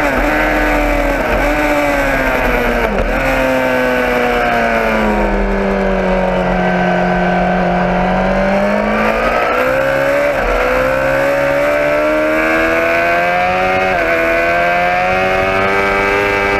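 Motorcycle engine running hard. Its pitch drops sharply three times in the first few seconds, as at quick gear changes, then falls away slowly and climbs back as the bike slows and speeds up again.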